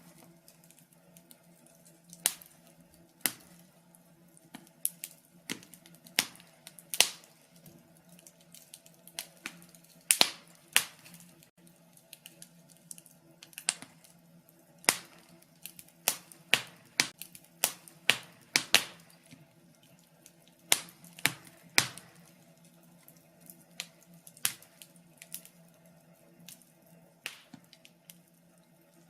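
Wood fire crackling: irregular sharp pops and snaps, bunched close together at times and sparse at others, over a faint steady low hum.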